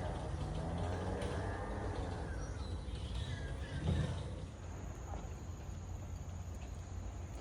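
Garden ambience: a steady low traffic rumble under a few faint bird chirps, a single knock about four seconds in, then a thin, steady high insect drone from about halfway.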